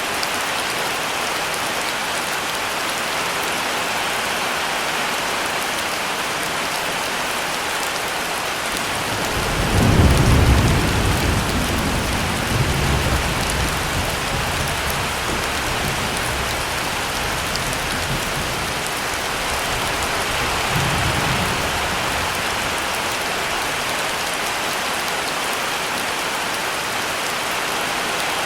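Heavy rain pouring steadily, with a deep roll of thunder about ten seconds in that rumbles on for several seconds, and a weaker rumble of thunder about twenty seconds in.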